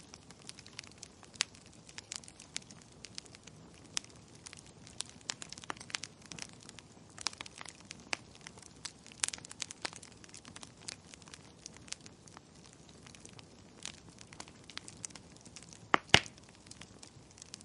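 Burning firewood crackling: irregular sharp pops and snaps over a faint steady hiss, with a couple of louder pops near the end.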